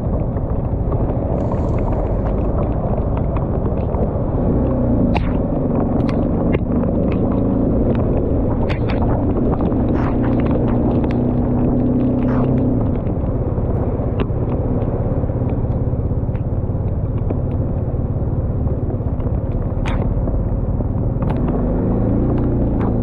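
Motorcycle on the move: a steady, loud rumble of wind and road noise. Under it the engine's note rises with acceleration about four seconds in, fades out about ten seconds later, and comes up again near the end. Scattered sharp ticks run through it.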